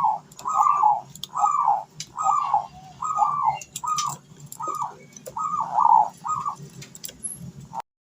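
Ringneck dove (burung puter) cooing over and over, about one arched coo a second, with scattered sharp clicks. The recording cuts off abruptly near the end.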